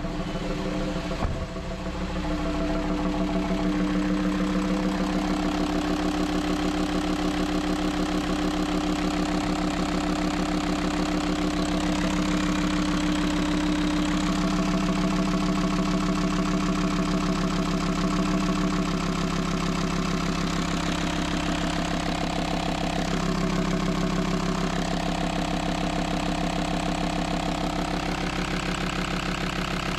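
VW Transporter T5's five-cylinder diesel idling steadily, freshly rebuilt with a new camshaft and lifters. It runs with its intake open, which makes a loud intake noise. The earlier knocking is gone, leaving only a light ticking from the new hydraulic lifters, which are still priming.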